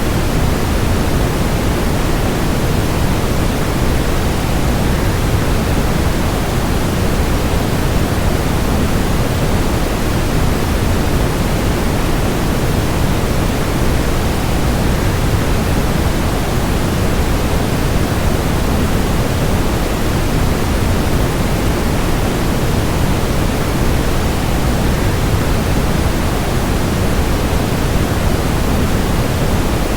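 Steady rushing noise of a waterfall, deep and even, with no change.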